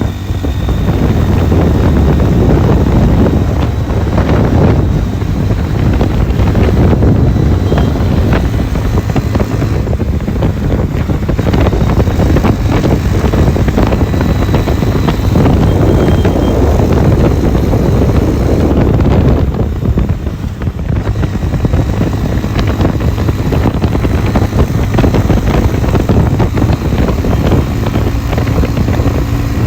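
Wind buffeting the microphone on a moving motorcycle, a loud steady rumble mixed with the ride's vehicle noise. It eases briefly about two-thirds of the way through.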